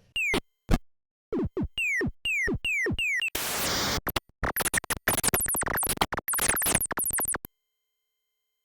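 Chiptune-style synthesizer intro: a run of quick falling pitch sweeps, a short burst of hiss about three and a half seconds in, then rapid warbling high arpeggios that cut off suddenly near the end.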